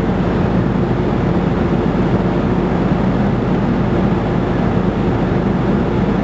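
Fire truck's diesel engine running steadily, a low even drone.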